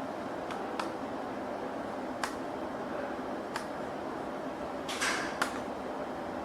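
A few faint, sharp clicks and a brief scratching rustle about five seconds in, over a steady background hiss.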